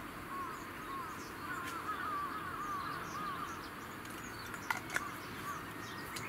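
A bird chirping in a rapid series of short, arching notes through the first half, over a steady low rush. Two sharp clicks come near the end.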